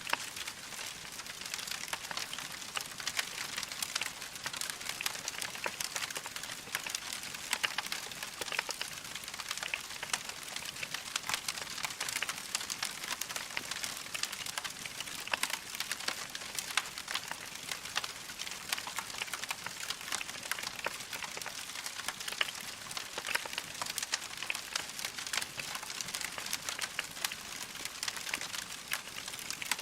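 Log fire crackling: a dense, steady stream of small sharp pops and snaps over a soft hiss.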